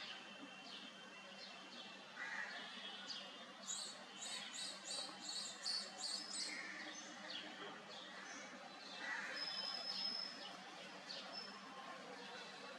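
Oriental magpie robin calling: scattered high chirps, with a quick run of about eight repeated notes in the middle, over steady background noise.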